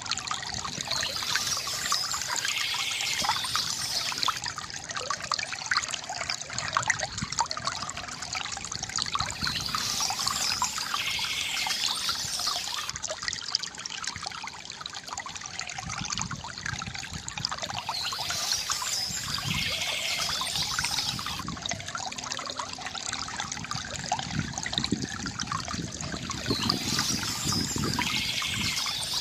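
Stream water trickling and splashing steadily, with a brighter, hissier stretch coming back about every eight seconds.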